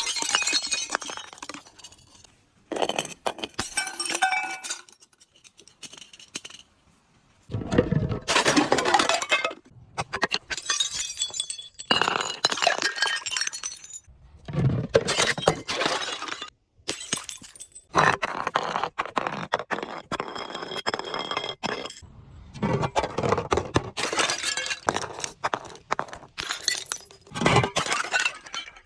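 Glass bottles breaking and being crushed: repeated bursts of crunching, cracking glass and clinking shards, each lasting a second or a few seconds, with short pauses between.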